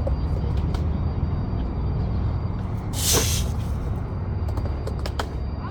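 Skateboard wheels rolling on concrete under a steady wind rumble on the microphone, with a few sharp clacks and a brief loud hiss about three seconds in.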